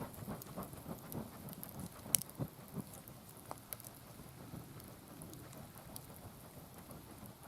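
Wood campfire crackling, with irregular small pops and one sharper, louder pop about two seconds in.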